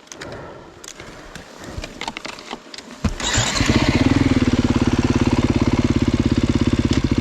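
Off-road motorcycle engine starting about three seconds in and settling straight into a steady, fast-pulsing idle. Before it, only faint scattered clicks and scuffs.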